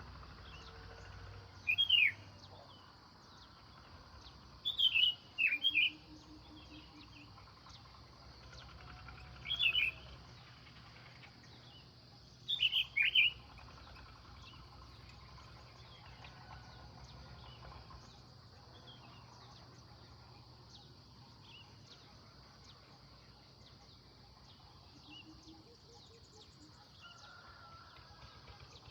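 A bird chirping: about six short, quick downward-sweeping chirps spread over the first half, then only a faint steady background hiss.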